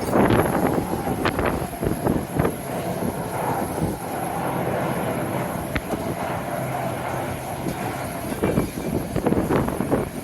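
Jet airliner engines running as a steady rumble with a faint hum, with strong wind gusts buffeting the microphone in the first couple of seconds and near the end.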